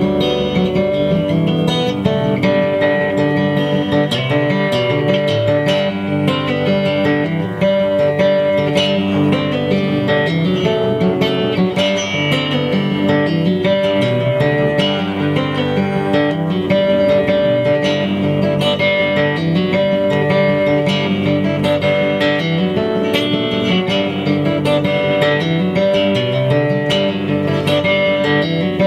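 Live instrumental Americana band playing, led by picked and strummed acoustic guitar, with many notes moving over a steady, full sound.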